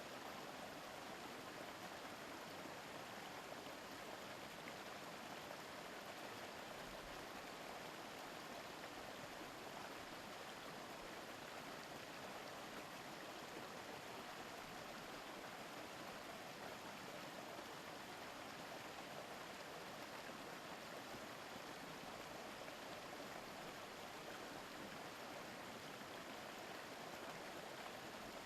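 A shallow mountain stream murmuring steadily over rocks, with no birds, voices or other events on top of it.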